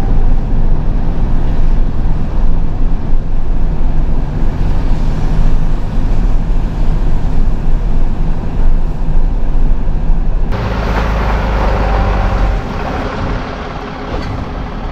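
Truck engine running with a steady low drone. About ten seconds in, a louder rushing hiss comes in suddenly and the drone fades under it.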